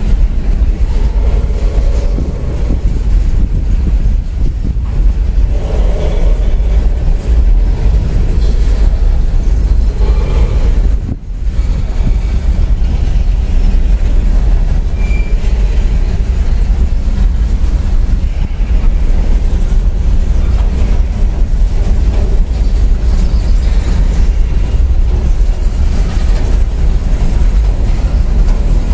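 Coal hopper cars of a CSX freight train rolling past at close range: a loud, steady rumble of steel wheels on the rails.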